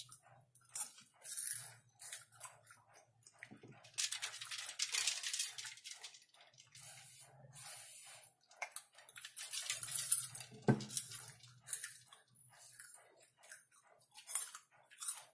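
Close-miked chewing of caramel-coated popcorn: many crisp crunches and small wet mouth clicks, with denser spells of crunching about four seconds and ten seconds in.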